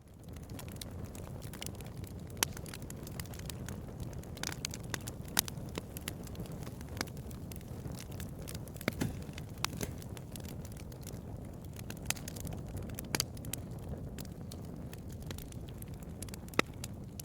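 Wood fire crackling: a steady low rumble of burning with sharp pops and snaps scattered irregularly, a handful of them louder. It comes up from silence at the very start.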